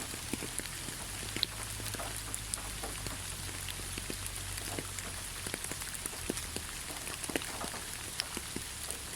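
Steady rain falling on leaves, a continuous hiss with many separate drops pattering irregularly throughout.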